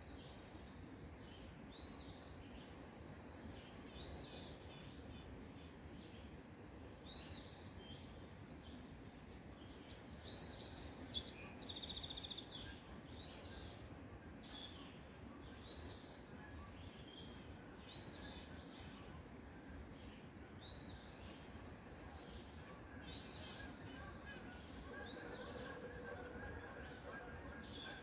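Songbirds singing faintly over a steady low background hiss: short chirping notes every second or so, broken by several quick high trills.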